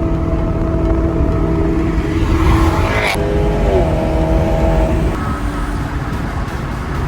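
Car engine under acceleration: its pitch climbs to a peak about three seconds in, then drops at a gear change and settles.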